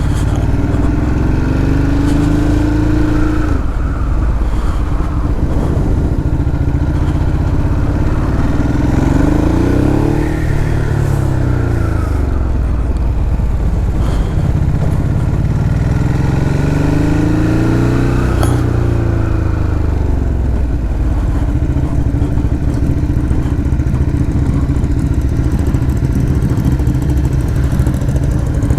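Motorcycle engines running steadily, with the engine note rising and falling three times as bikes are revved or ride past.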